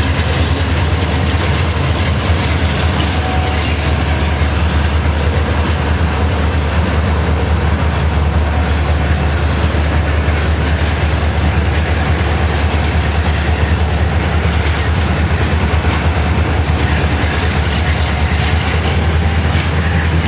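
CSX freight train's covered hoppers and tank cars rolling past close by, a steady low rumble with the clack of wheels over the rail joints.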